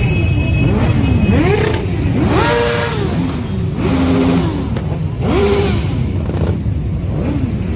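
A group of motorcycles in a convoy revving their engines, many overlapping swells of engine pitch rising and falling over a steady low rumble.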